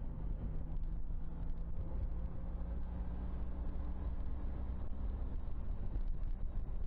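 Honda CTX 1300's V4 engine running steadily at about 2,500 rpm in fifth gear while cruising, with no shifting.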